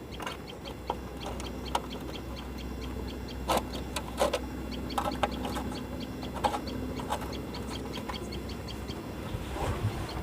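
Scattered light clicks and knocks, the loudest about three and a half to four and a half seconds in, from nuts and the chain cover of a motorcycle being fitted by hand, over a steady low hum.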